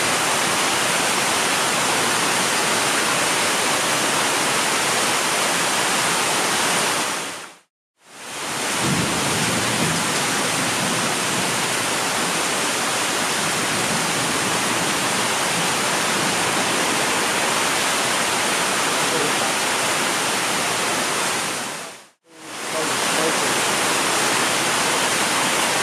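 Heavy rain in a thunderstorm, a steady loud hiss. It fades out to silence for a moment twice, about eight seconds in and again near the end.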